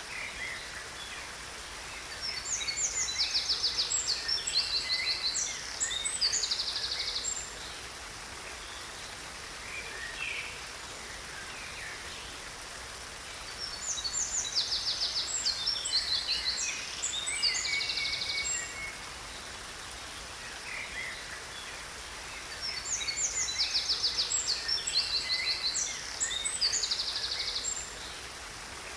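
A songbird singing three phrases of rapid, high trills and chirps, about ten seconds apart, over the steady hiss of a waterfall.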